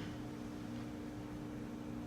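Quiet room tone: a steady hiss with a constant low hum.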